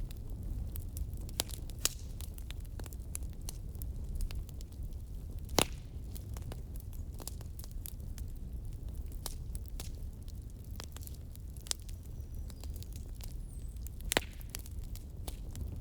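Wood fire burning with irregular crackles and pops over a steady low rumble; the sharpest pops come at about five and a half seconds and near the end.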